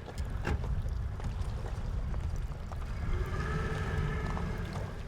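Motorboat running across open water, a dense low rumble of motor and hull with wind on the microphone; a steadier higher hum joins about three seconds in.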